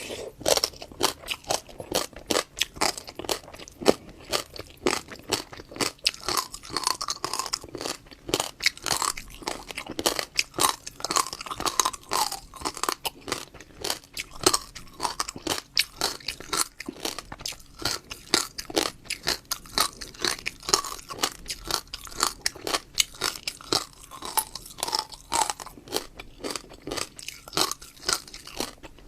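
Close-up chewing of crunchy fruit seeds: a dense, continuous run of small crunches and clicks.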